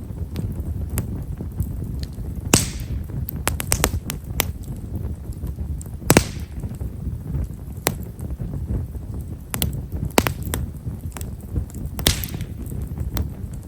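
Campfire of himeshara (Japanese stewartia) firewood burning: a low rumble of flame under fine, quiet crackling, many small sharp cracks at irregular intervals. Three louder pops, each followed by a brief hiss, come about two and a half, six and twelve seconds in.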